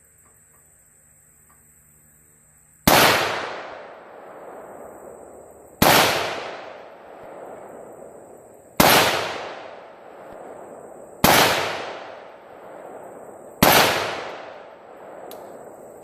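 Rifle firing five 5.56 green-tip rounds at a steel plate, slow aimed shots about two and a half to three seconds apart, each with a trailing echo.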